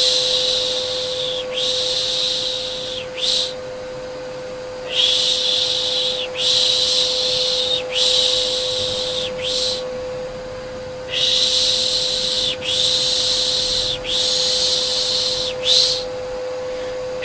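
Repeated soft shushing ('shhh') for soothing a baby, in runs of three or four long hushes with short pauses between the runs, over the steady hum of a vacuum cleaner.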